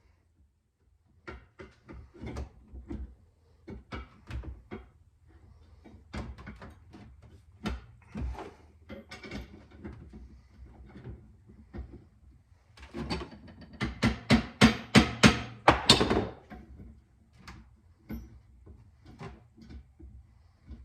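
Shop bench work on a steel fork leg: irregular knocks and clinks of metal parts and hand tools being handled. About two-thirds of the way through comes a louder run of quick strokes on metal, several a second, lasting a few seconds.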